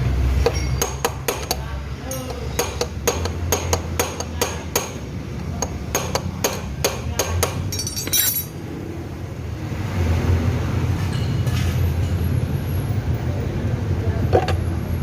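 Hammer tapping on a Honda Beat FI scooter's final-drive gear case: a run of sharp metallic taps, a few a second, for about seven seconds, working loose a case that is hard to open. A brief hiss follows about eight seconds in, and a steady low hum lies underneath.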